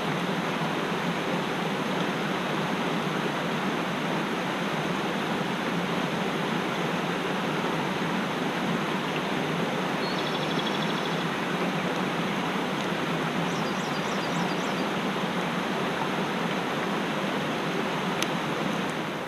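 Mountain stream water rushing steadily, with a few faint, short bird chirps about halfway through.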